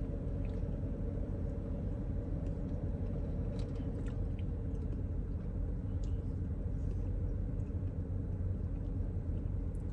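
A steady low rumble and hum with a few faint, scattered clicks.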